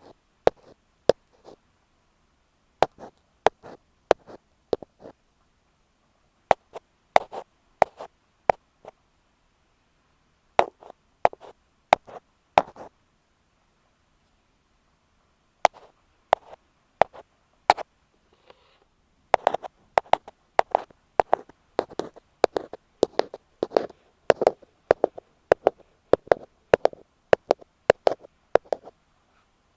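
Ear pick tapping on an earphone microphone, close up: groups of sharp taps with short pauses, turning into quicker, steadier tapping about two-thirds of the way in.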